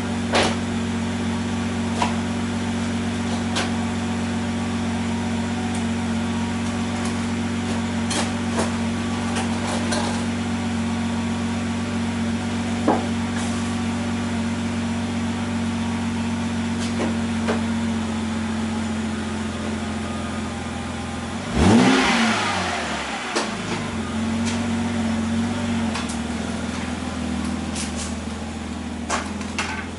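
BMW E92 328i's inline-six running through an exhaust with its muffler cut off, idling steadily. About two-thirds of the way in it is revved once, the note rising sharply and falling back to idle within about two seconds. A few light clicks are scattered through it.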